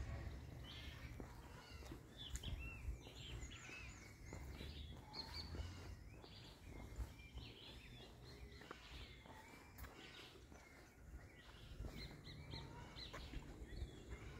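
Several small birds chirping and calling, short high notes and quick up-and-down calls scattered throughout, faint, over a low steady rumble.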